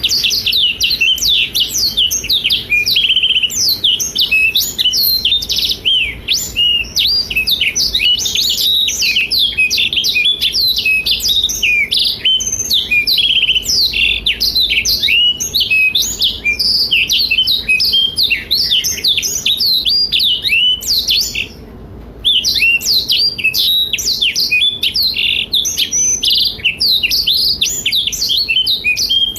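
Black-throated canary (blackthroat) singing in a long, energetic run of rapid high twitters, trills and slurred whistles, with one brief break a little past two thirds of the way through.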